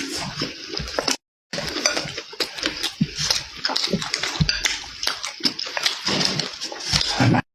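Close-miked mukbang eating sounds: loud wet chewing and lip-smacking on meat, with many sharp clicks. The sound drops out completely for a moment about a second in.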